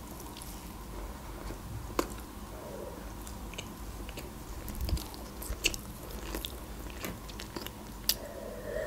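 Close-miked chewing of cheese-filled khachapuri bread, with scattered sharp mouth clicks. A sip from a glass comes near the end.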